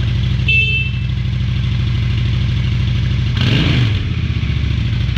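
2013 Honda Shadow Phantom's V-twin idling on its stock exhaust, blipped once a little past three seconds in, its note rising and dropping back to idle. A short high beep sounds about half a second in.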